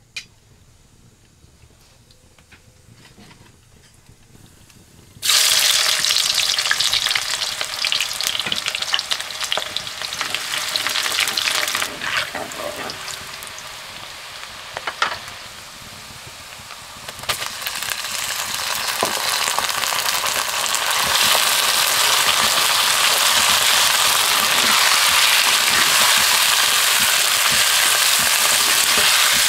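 Sliced onions and then pieces of mutton frying in hot oil in a black iron wok over a wood fire, stirred with a wooden spatula. The sizzle starts suddenly, loud, about five seconds in, eases off in the middle, then swells louder again and stays loud while the meat fries.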